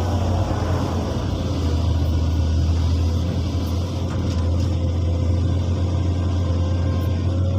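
Excavator's diesel engine running steadily: a deep, even rumble with a faint whine above it.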